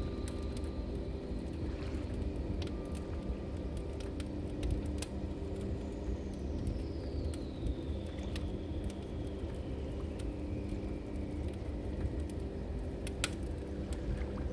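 Log fire crackling, with scattered sharp pops over a steady low rumble, under a soft sustained drone of ambient music. Through the middle a high thin tone slowly falls in pitch.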